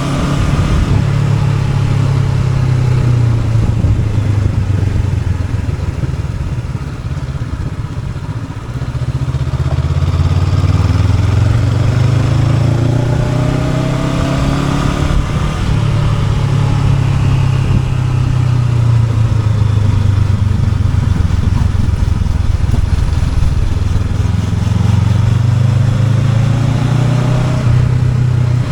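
Honda NX500 parallel-twin motorcycle engine under way, its pitch rising and falling several times as the throttle is opened and closed. It eases off about six to nine seconds in, then pulls hard again, with wind rush over the engine.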